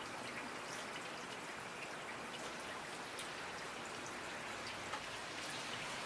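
Steady rainfall: an even hiss with individual drops ticking here and there.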